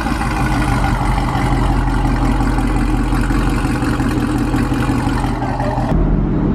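Supercharged V8 of a modified Cadillac CTS-V (ported blower, overdriven pulley, E85, full exhaust) idling steadily, quiet for its build. A high hiss over the engine cuts off suddenly about six seconds in.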